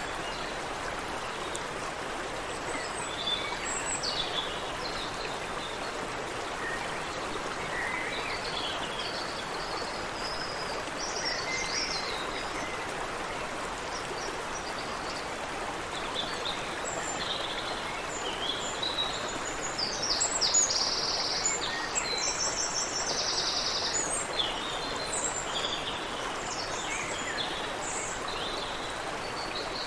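Creek water running steadily, with birds chirping and singing throughout; two quick trills of rapid, evenly spaced notes come about two-thirds of the way in.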